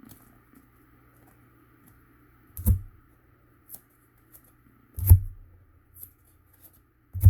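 Cardstock pieces being handled and taped together with masking tape: faint paper rustles and ticks, with three dull thumps on the work surface about two and a half seconds apart.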